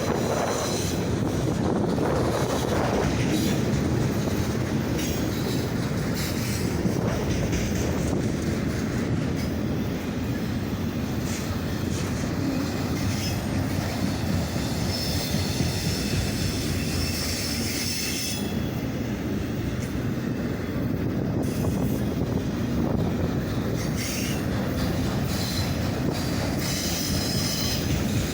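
CSX auto rack freight train's cars rolling steadily past, with a continuous low rumble from the wheels on the rails. A thin high squeal from the wheels comes and goes.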